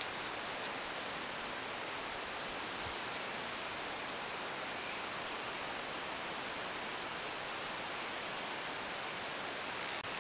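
Steady, even hiss with a faint thin high whine above it and no distinct calls or knocks; it drops out for an instant near the end.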